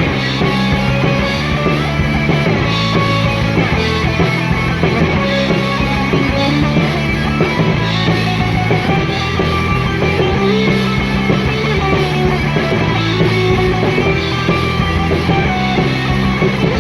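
Rock band playing an instrumental break: distorted electric guitar, bass and drum kit at a steady loud level with no vocals.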